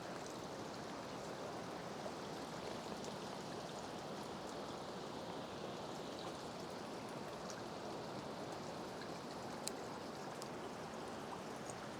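Faint, steady rush of distant flowing water, a river and waterfall in the valley below, with one small click about ten seconds in.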